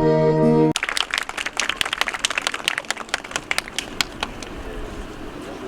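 The last held chord of a sung folk song with guitar cuts off under a second in, followed by audience applause that thins out and fades over about four seconds.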